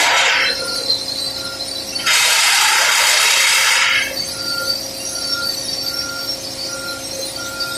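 Simba S7D long-hole drill rig at work drilling rock, with two loud, noisy stretches of about two seconds each. Between them a quieter steady machine hum carries on, and a short tone repeats about every half second.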